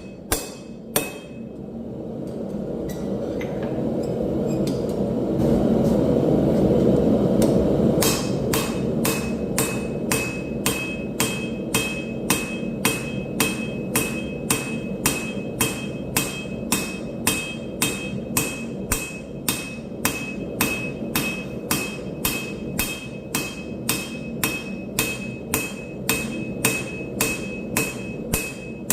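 Hand hammer forging railroad scrap steel on an anvil: a few blows, then a steady run of about two ringing blows a second from about eight seconds in. A low rushing noise runs underneath, swelling loudest just before the steady hammering begins.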